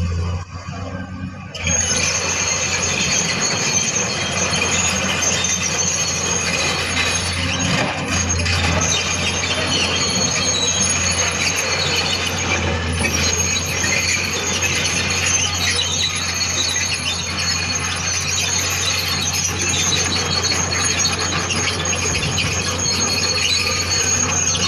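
Heavy tracked earth-moving machine at work: a continuous high metallic squeal and grinding from the steel tracks over a steady low engine hum. It starts abruptly about two seconds in and keeps going.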